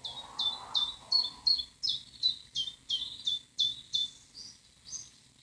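Bird calling in a quick series of short, high notes, each sliding downward, about two or three a second. The calling cuts off suddenly at the end.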